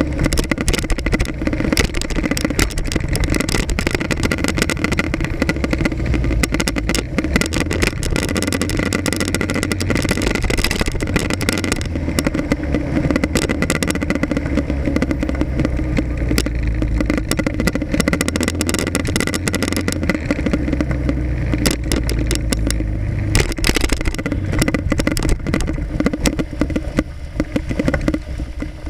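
Motorcycle engine running as it rides through city traffic, picked up by an action camera mounted on the front of the bike, with a steady rumble and constant wind and road clatter. The engine note swells and eases as the bike speeds up and slows.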